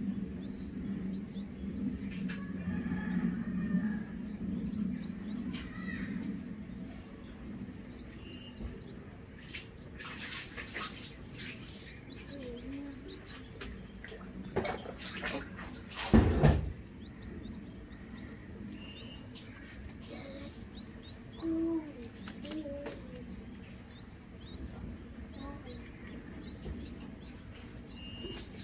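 Small birds chirping in repeated quick series of short high notes, with rustling around ten seconds in and a loud knock about sixteen seconds in.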